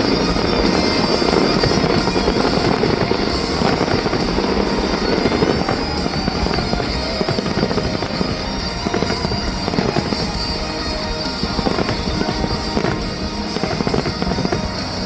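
A fireworks display, with shells bursting and crackling densely over music.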